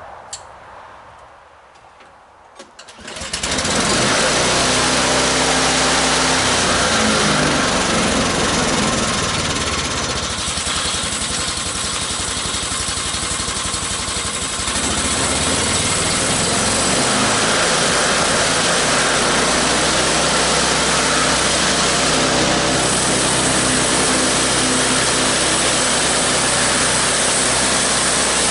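Gasoline engine of a homemade bandsaw sawmill starting about three seconds in and catching at once. Its speed shifts up and down for a while, then it runs steadily at a higher speed through the second half.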